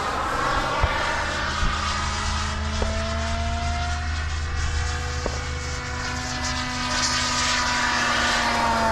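Fuel-burning engine of an RC model airplane flying overhead, its pitch slowly rising and falling as it passes and growing louder near the end. The engine is nearly out of fuel.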